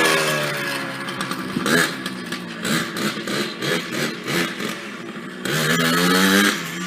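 Dirt bike engine revving: the pitch rises twice, at the start and again about five and a half seconds in, with choppy, uneven running between the revs.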